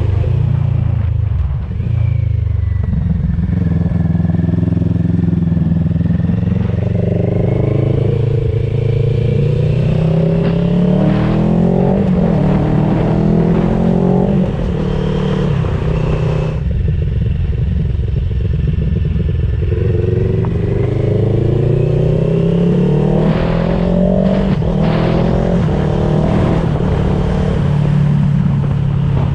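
CFMOTO 700CL-X parallel-twin engine heard through an IXRACE DC1 carbon aftermarket exhaust on the road. It accelerates up through the gears with a rising note that drops back at each shift, eases off around the middle, then pulls up through the gears again.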